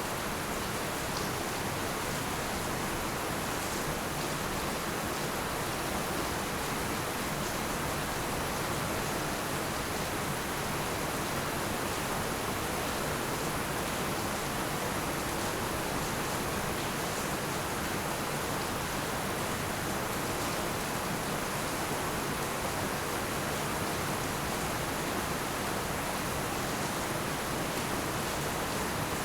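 Heavy rain falling steadily: an unbroken, even hiss without thunder.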